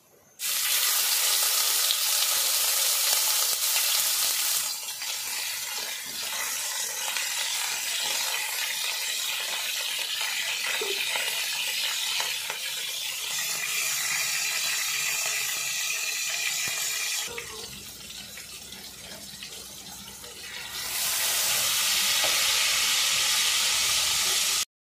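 Diced raw chicken sizzling in hot oil in a steel wok: a loud frying hiss that starts suddenly as the chicken goes in, eases off partway through, swells again near the end, then cuts off abruptly.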